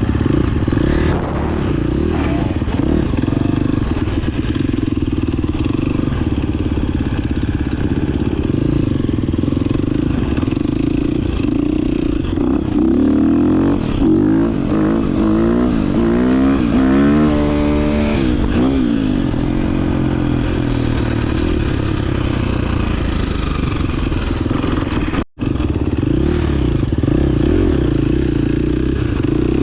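Dirt bike engine running steadily, with the revs rising and falling repeatedly about halfway through as the throttle is worked.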